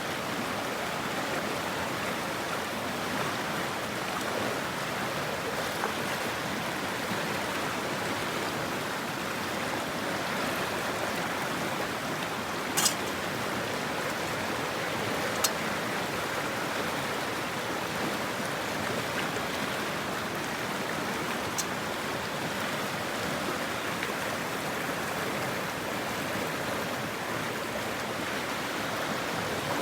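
Mountain stream flowing, a steady rushing of water, with a few sharp clicks over it.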